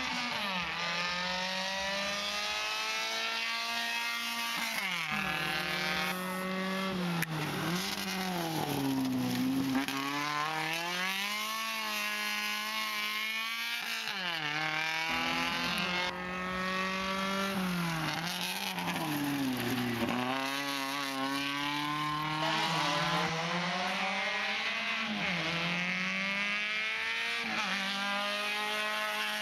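Race car's engine revving hard through the gears as it is driven round a cone slalom course. The pitch climbs, drops sharply at each gear change or lift off the throttle, and climbs again, over and over.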